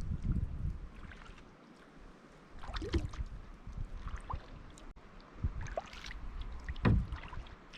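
Kayak paddle blades dipping into lake water, with a few splashes and drips about a second apart, after a brief low rumble of wind on the microphone at the start.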